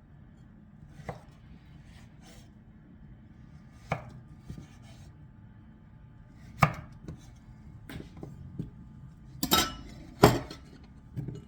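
Paring knife slicing quartered zucchini into pieces on a cutting board: about ten irregular sharp knocks of the blade meeting the board, the two loudest near the end.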